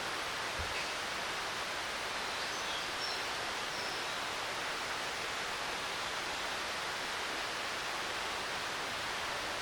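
Steady rushing of falling water from a waterfall, an even hiss without letup.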